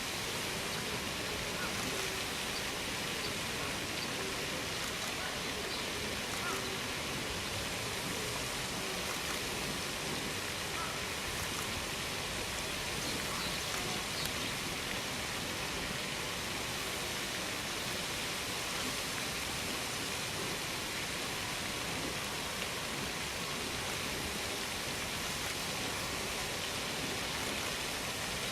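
Steady, even outdoor hiss like running water, with no clear birdsong standing out.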